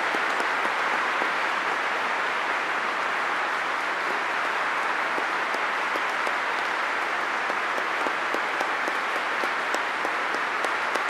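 A large audience applauding steadily: a dense, even wash of many hands clapping.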